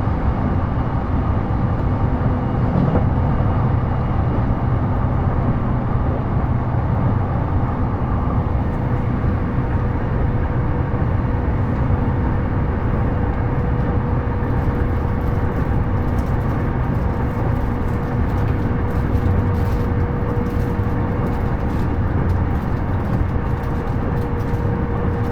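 Onboard running sound of a JR East E233-series electric train moving at a steady speed: a continuous low rumble from wheels and track, with a steady whine held at one pitch. Faint scattered clicks join in from about halfway through.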